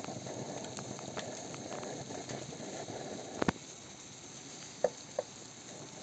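Crackling sizzle of food cooking on a hot surface for about three and a half seconds, ending with a sharp knock; after it things are quieter, with two short ringing clinks near the end.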